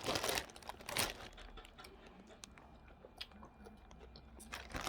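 Close-up eating sounds from a seafood boil: chewing and crunching, with a couple of louder crunches in the first second, then quieter chewing and small clicks.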